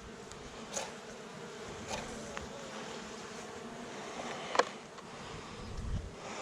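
Saskatraz honey bees buzzing steadily around an opened hive, with one sharp tap about four and a half seconds in.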